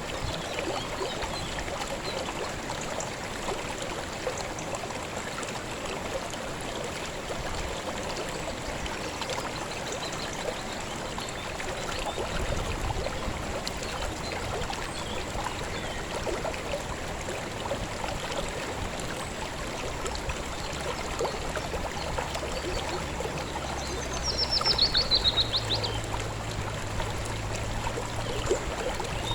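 River water flowing with a steady rushing babble. About twenty-four seconds in, a bird gives a quick trill of notes falling in pitch, the loudest sound here.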